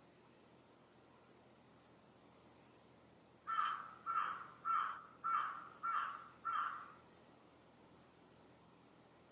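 A bird giving six harsh calls in a quick series, about two a second, over faint high chirps of small birds.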